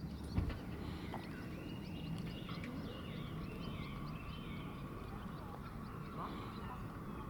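Animal calls: a run of short, high, arching notes repeated for a few seconds, over a steady low rumble.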